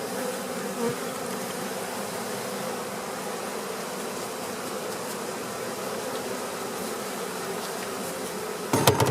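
Honey bees buzzing around an open hive in a steady hum. Near the end, a brief loud clatter of a few knocks.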